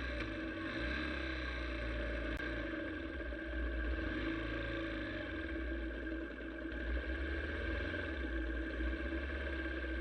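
A vehicle engine running steadily with a low rumble and an even, unchanging note.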